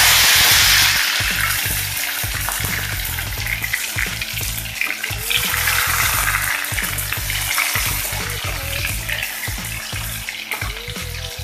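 Chopped tomatoes frying in hot oil with cumin seeds in a metal pan. The sizzle is loudest in the first second, as the tomatoes hit the oil, then settles into steady frying while a steel spatula stirs them.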